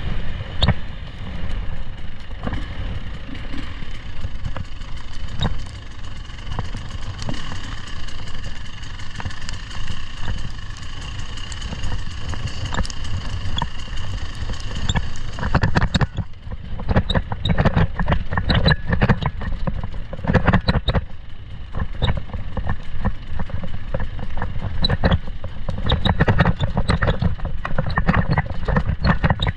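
Off-road vehicle engine running under way, with frequent knocks and rattles over the steady rumble. The higher, hissier part of the sound falls away about halfway through.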